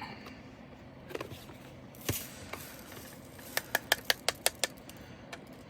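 Handling of plastic storage containers: a knock, then a quick run of about eight sharp clicks, a few a second, and a couple more near the end.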